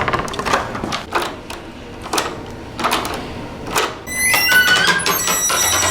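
A door on a Sargent door closer creaking loudly as it swings, a long squeal that changes pitch in steps, starting about four seconds in. Scattered knocks and clicks come before it.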